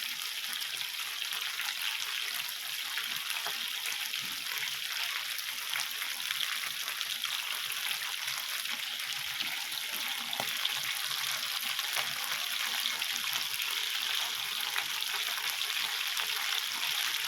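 Teriyaki chicken kebabs sizzling and crackling in hot oil on an indoor grill: a steady hiss full of small pops.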